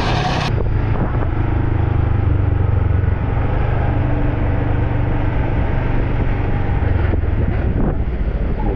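Motor vehicle engine running steadily, a low hum with road and wind noise.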